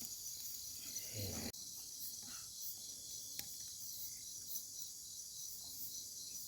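Crickets and other night insects chirring steadily in a high, pulsing trill.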